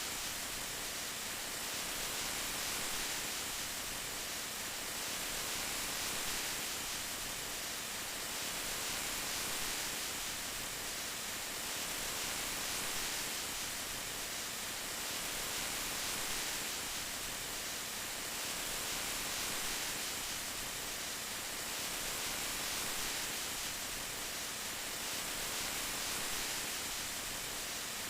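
Steady rain, a dense even hiss that swells and eases gently every few seconds.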